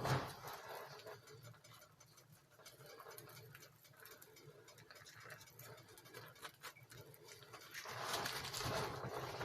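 Omelet cooking in butter in a frying pan, a faint sizzle with scattered light clicks of a utensil. A sharp knock right at the start and a louder stretch about eight seconds in.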